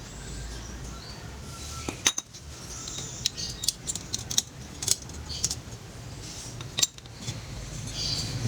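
Light metallic clinks and taps at irregular intervals, as of small metal parts and hand tools being handled on an old iron stroller frame, the sharpest about two seconds in and near the end.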